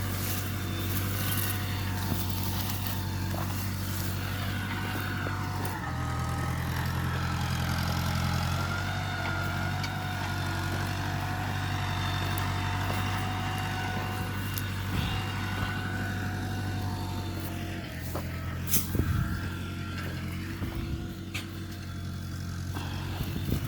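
Tractor engine running steadily, its note shifting about six seconds in and again near eighteen seconds, with a few short knocks toward the end.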